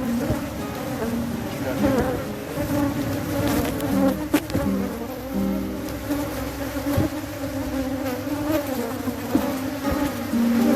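Honeybees buzzing, many at once, their overlapping wingbeat tones shifting up and down in pitch.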